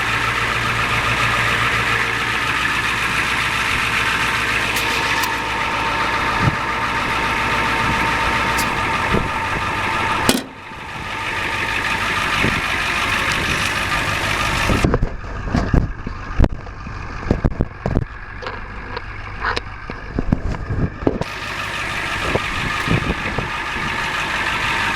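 A 1992 Ford F350's turbo diesel engine idling steadily. About fifteen seconds in, a run of sharp clicks and knocks sounds over the idle for several seconds.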